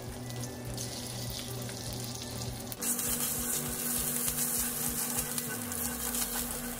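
Tomato paste sizzling in hot fat in a cast-iron skillet as it is stirred and spread with a wooden spoon; the sizzle grows suddenly louder about three seconds in.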